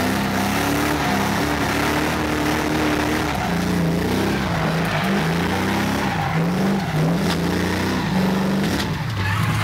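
Drift car engine revving hard on track, its pitch repeatedly rising and falling, then dropping to a steady low run near the end.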